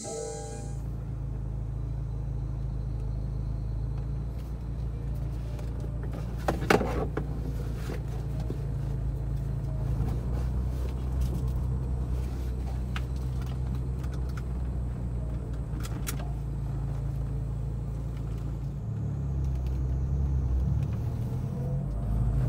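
Abarth car's engine running as it drives, heard from inside the cabin: a steady low drone that changes pitch a few times, with a sharp knock about seven seconds in.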